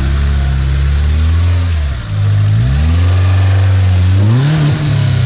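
Off-road vehicle's engine running hard and revving, the revs dipping about two seconds in and climbing twice, about two and a half and four and a half seconds in.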